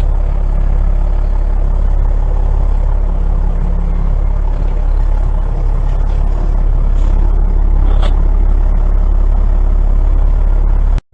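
Heavy plow truck's engine running steadily with a deep, even rumble. The sound cuts out for a moment just before the end.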